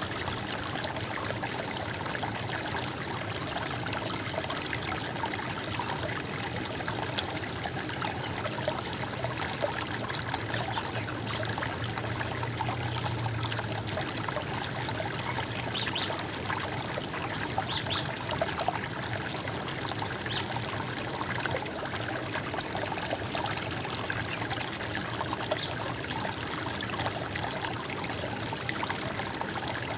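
Running water trickling and gurgling steadily.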